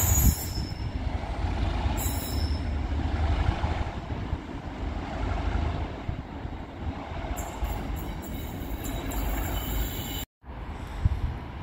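A train at a station platform: steady low running noise with high hissing near the start and again later, cutting out abruptly for a moment about ten seconds in before resuming.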